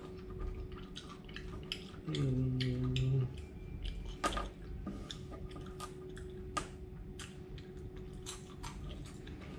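Crunching as fried mealworms are chewed: many small, sharp crackles one after another. A short closed-mouth hum comes about two seconds in.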